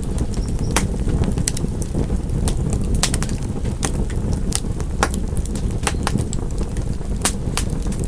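Wood fire in a fireplace crackling: irregular sharp pops and snaps, several a second, over a steady low rumble of burning.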